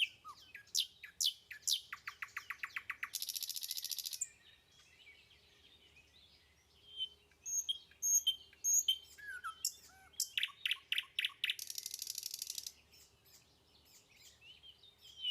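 Small songbird singing: sweeping and chirping notes, then a fast trill that runs into a dry buzz, the phrase given twice about eight seconds apart.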